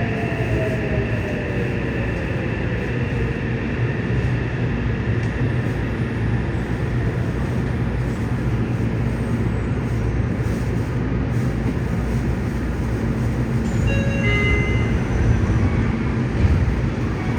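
Yokohama Blue Line 3000N subway train running, with a steady low rumble of wheels and motors. The Mitsubishi IGBT-VVVF inverter's whine falls in pitch and fades out in the first few seconds. Brief high electrical tones sound about fourteen seconds in.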